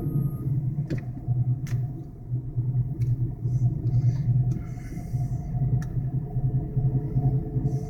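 Car heard from inside the cabin while driving: a steady low rumble of engine and road, with a faint steady hum above it and a few light ticks.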